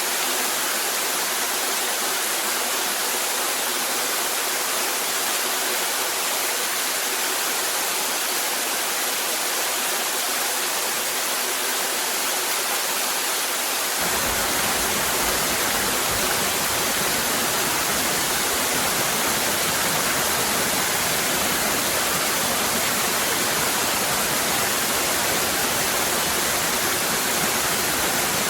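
Cascading waterfall rushing steadily. About halfway through the sound abruptly takes on a deeper, fuller low rumble and stays that way.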